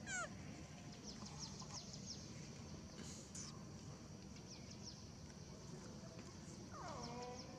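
Faint bird chirping: short high notes that fall in pitch, repeated in quick groups, with a louder sweeping call falling from high to low right at the start and a lower falling call near the end.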